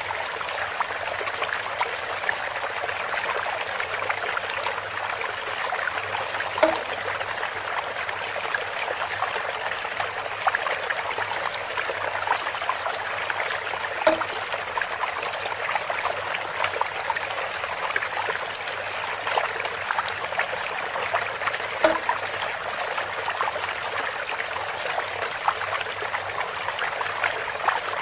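Water trickling steadily through a bamboo spout, with a short hollow knock three times, about every seven and a half seconds.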